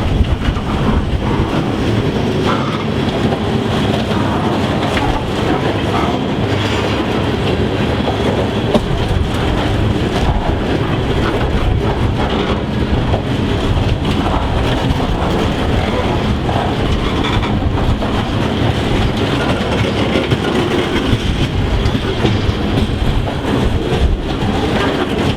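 Train rolling past on the main line, its wheels clattering steadily over the rail joints.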